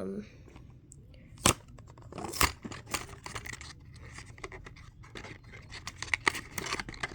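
A toy car's packaging being handled and torn open by hand: irregular crinkling, tearing and scratching, with two sharp snaps about a second and a half in and again a second later.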